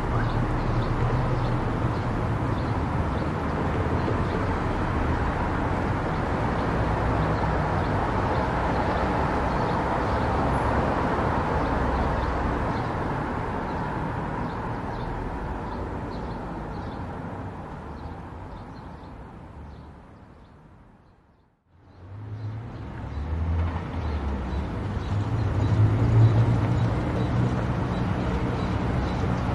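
Car driving on an expressway: steady road and engine noise with a low rumble. About two-thirds of the way through it fades away to a moment of silence, then fades back in.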